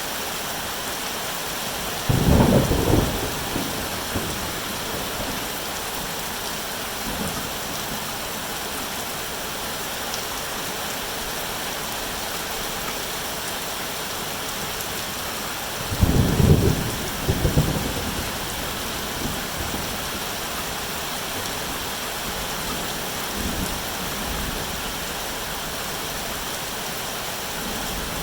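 Steady rain falling, with two loud rolls of thunder, one about two seconds in and another about sixteen seconds in, each trailing off in smaller rumbles.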